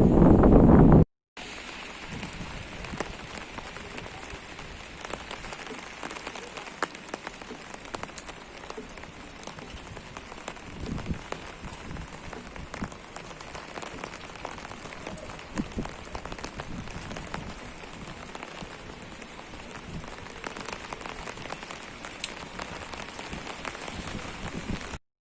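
Steady rain falling, an even hiss with many separate drops tapping. It opens with about a second of loud low rumbling noise that stops at a cut to brief silence before the rain.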